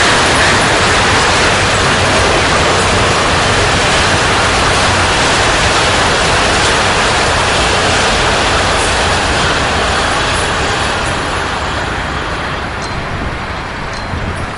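Enclosed autorack freight cars rolling past on the rails, a loud, steady rolling noise of steel wheels that fades away over the last few seconds as the end of the train moves off.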